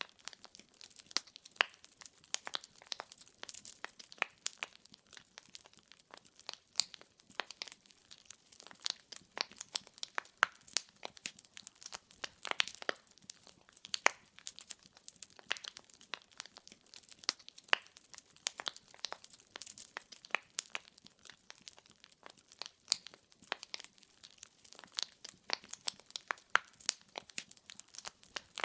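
Firewood burning in a fireplace, crackling and popping irregularly and continuously, many sharp snaps a second over a soft hiss.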